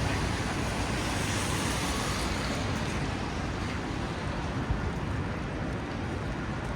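Steady city street noise: a continuous hiss of passing traffic with a low rumble and wind on the microphone.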